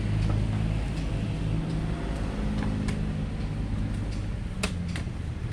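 Truck engine idling steadily, with a few sharp knocks over it, the loudest one near the end.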